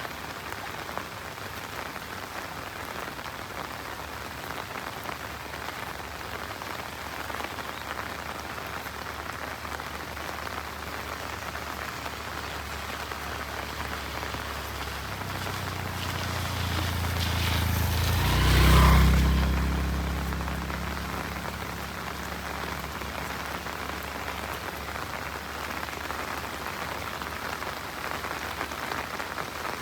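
Steady rain falling on a road and surroundings. About two-thirds of the way through, a low motor sound from a passing vehicle swells, peaks loudly and fades over several seconds.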